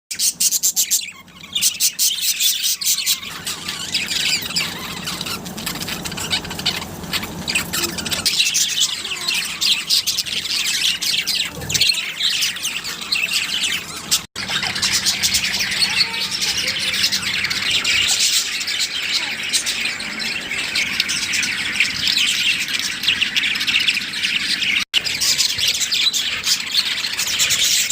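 A colony of lovebirds chattering and squawking all at once, a dense, continuous high-pitched chatter of many overlapping calls. The sound cuts out for an instant twice, about 14 and 25 seconds in.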